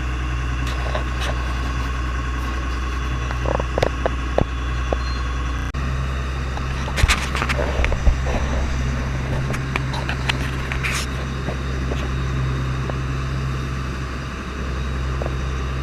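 Fishing boat's engine running with a steady low drone, with a few scattered knocks and clatters on board.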